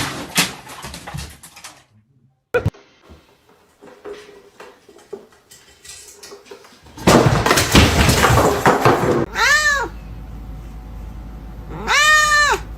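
A domestic cat meows twice in the last few seconds, each meow a call that rises and then falls in pitch, the second one longer. Earlier come stretches of noise and a single sharp knock.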